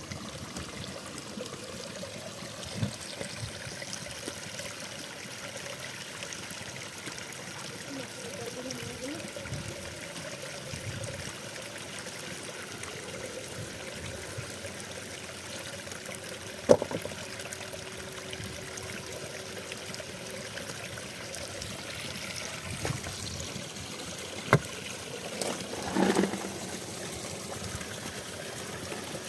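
Mountain spring water trickling and running steadily, with a couple of sharp knocks, one about halfway through and another near the end.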